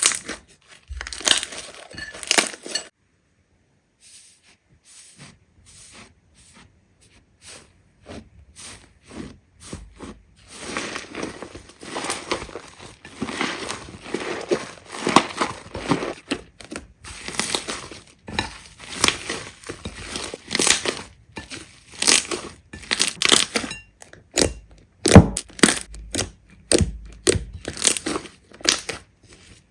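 Slime being squeezed and poked, giving quick irregular crackling and popping sounds. There is a short near-silent gap about three seconds in, after which the crackling builds back up.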